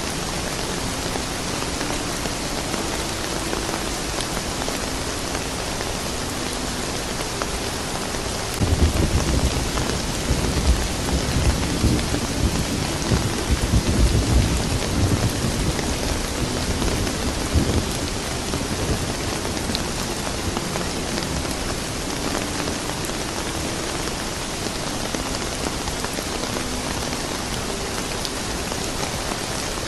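Steady rain falling, with a long low rumble of thunder that starts suddenly about nine seconds in, swells for several seconds and fades out about eight or nine seconds later.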